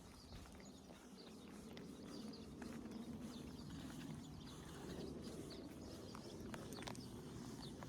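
Faint outdoor ambience: scattered short bird chirps over a low steady rumble.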